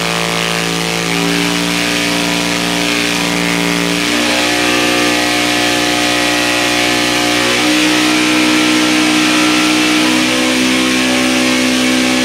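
Katech Hot Rod LSX 427 pushrod V8 running loud on an engine dyno, holding steady speeds and shifting pitch in steps about four and seven and a half seconds in.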